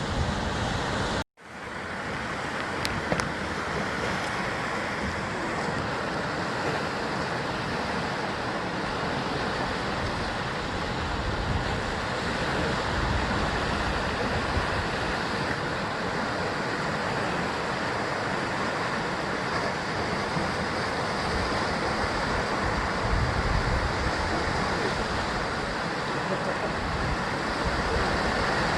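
Sea waves washing and breaking on a rocky basalt shore, a continuous steady surf. About a second in, the sound cuts out briefly and then returns.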